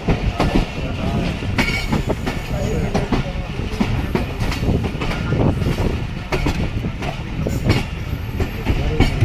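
Passenger coaches running at speed: a steady rumble of wheels on rail, broken by irregular clicks and knocks from the rail joints.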